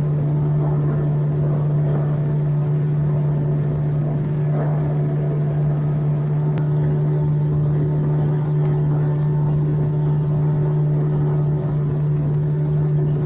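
Outboard motor on a small boat running at a steady, even speed while the boat is underway, with a constant engine tone and water and wind noise beneath it.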